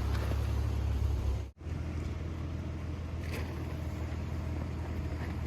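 A motor running steadily with a low hum, cut off abruptly for a moment about one and a half seconds in, then continuing.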